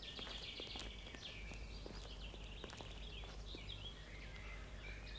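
Small birds twittering, with many short, high chirps over a steady low background hum.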